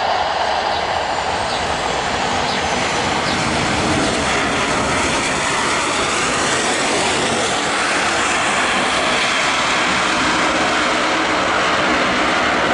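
Boeing 737-800 jet airliner passing low on landing approach, its turbofan engines giving a loud steady rush with a high whine that falls in pitch over the first few seconds.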